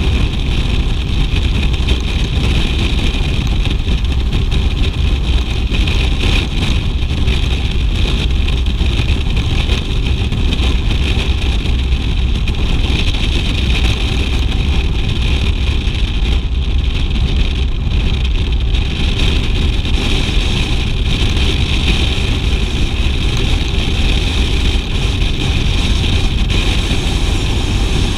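BMW R 1200 GS boxer-twin motorcycle under way at a steady pace: a continuous low engine rumble mixed with wind and road noise, with no change in speed.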